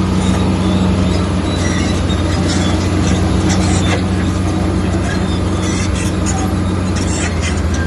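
Komatsu bulldozer's diesel engine running steadily under load, with short, high metallic squeaks and clanks from the machine.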